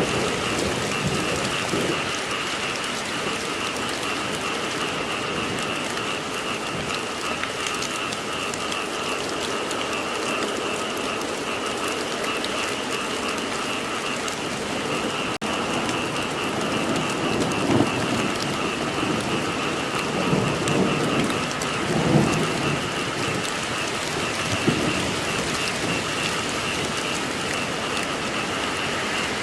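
Steady rain falling with a continuous chorus of frogs calling, and rumbles of thunder swelling up in the second half.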